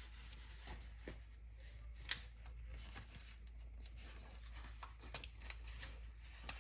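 Faint rustling and scattered light clicks of a sheet of sticker decals being handled, with one sharper tick about two seconds in.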